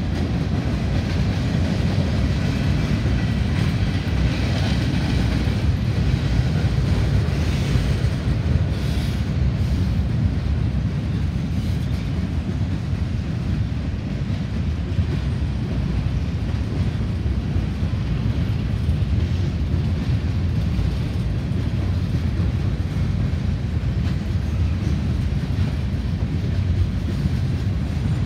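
Freight train of tank cars and covered hopper cars rolling steadily past, a continuous low rumble of wheels on rail.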